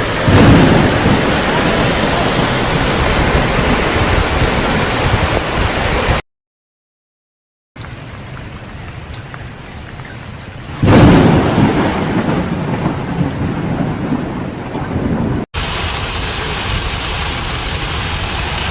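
Heavy rain pouring down during a thunderstorm, with two loud rumbling thunderclaps: one right at the start and another about eleven seconds in. The sound cuts out completely for about a second and a half about six seconds in.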